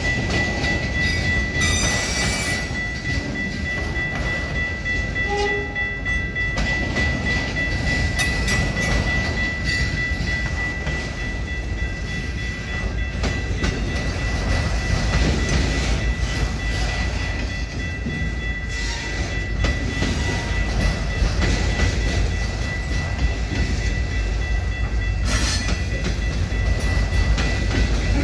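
Autorack freight cars rolling past: steel wheels rumbling and clacking on the rails, over a steady high-pitched tone, with sharp clanks about two seconds in and again near the end.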